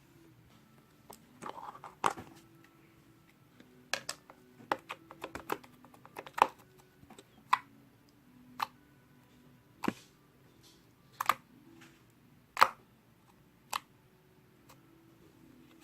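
Slime being pressed and squeezed by hand, giving sharp popping clicks as trapped air pops: quick clusters of clicks in the first few seconds, then single pops about once a second.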